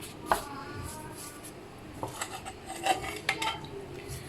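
Kitchenware clinking: one sharp knock about a third of a second in, then a few lighter clinks later on.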